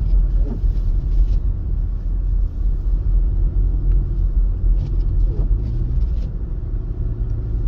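Low, steady rumble of a 2025 Mercedes-Benz GLC 300 driving on snowy roads: tyre and engine noise heard from inside the cabin.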